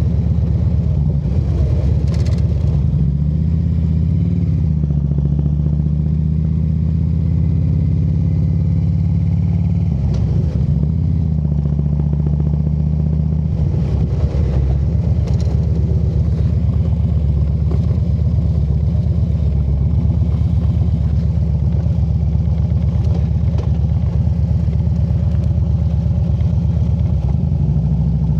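Harley-Davidson motorcycle's V-twin engine running at low speed, its note shifting a few times as the throttle changes.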